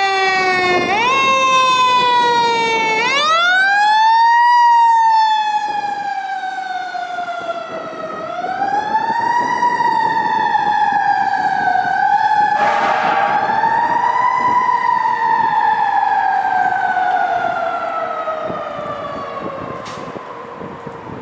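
Fire engine's siren wailing, rising and falling in long slow sweeps, fading near the end as it goes away.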